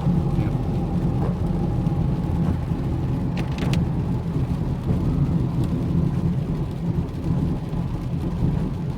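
A road vehicle driving steadily, its engine and road noise making a continuous low drone with a faint steady whine, and a brief high-pitched sound about three and a half seconds in.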